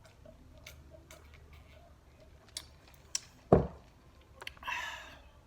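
Close-miked eating sounds: small clicks and moist chewing noises, with one loud thump about three and a half seconds in and a short noisy burst near the end.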